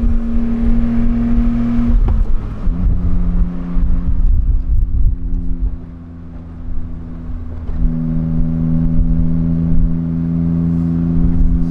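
Honda Beat's small three-cylinder engine running under way, pulling steadily. Its pitch drops about two seconds in and again near the end as it changes gear, with a brief lull around the middle.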